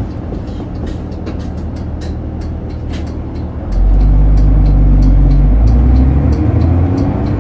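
Diesel engine of a route bus running, heard from inside the cabin, with small rattles; about four seconds in it pulls harder and gets louder for about three seconds, then eases off.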